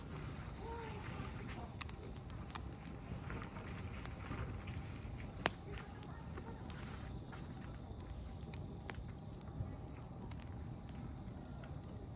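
Wood campfire crackling, with scattered small pops and one sharper pop about five and a half seconds in, over a steady low rush. Insects chirp faintly in an even pulse.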